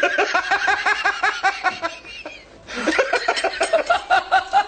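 A person laughing in quick, high, pulsing bursts, two bouts with a short pause for breath about two seconds in.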